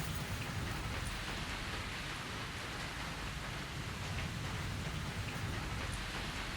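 Steady rain falling, with a few faint scattered drop ticks.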